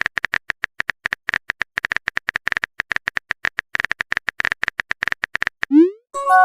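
Rapid, irregular keyboard-typing clicks, several a second. Near the end a short rising pop and a brief chime follow, the chat app's message-sent sound.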